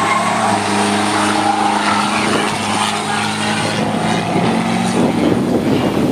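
Diesel SUV or pickup engine running at high revs, a steady drone that holds nearly one pitch.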